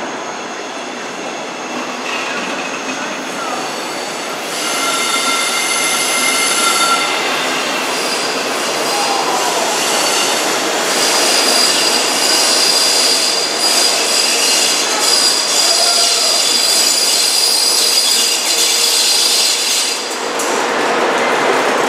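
DB Regio double-deck push-pull train pulling out along a curved track, its wheels squealing in several high, steady tones that grow louder from about four seconds in. Near the end the electric locomotive at the rear passes, and a lower steady hum joins in.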